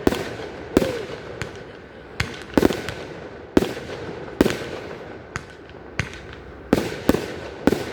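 Fireworks display shells bursting overhead: about eleven sharp reports at irregular intervals, each with a short echo.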